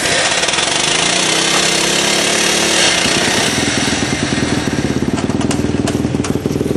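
Single-cylinder Supermono racing motorcycle engine under throttle, its revs climbing between about one and three seconds in, then held high with a rapid pulsing beat.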